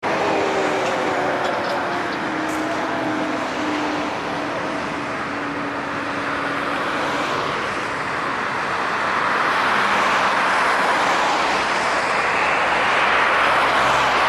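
Airbus A380's four jet engines on landing approach: a broad rushing roar that swells louder in the second half. A few slowly falling tones run through it early on.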